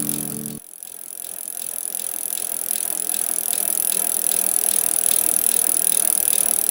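Bicycle freewheel clicking steadily as the wheel coasts, several even ticks a second over a hiss.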